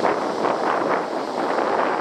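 Strong wind blowing across the microphone over heavy surf from big typhoon-driven waves, a loud, steady rushing noise.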